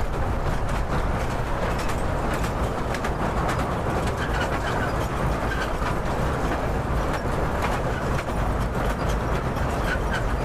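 Small open-carriage toy train running along a jetty, heard from aboard: a steady rumble with a constant light rattling of the carriages on the rails.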